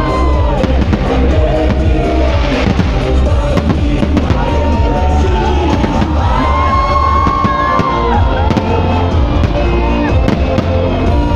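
Fireworks bursting and crackling, many sharp cracks and bangs, over loud music with a heavy low beat and a melody line.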